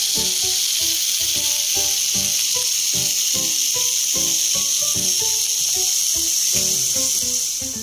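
Chicken skewers and sliced hot dogs sizzling on an electric indoor grill, a steady hiss, with background music of short pitched notes underneath.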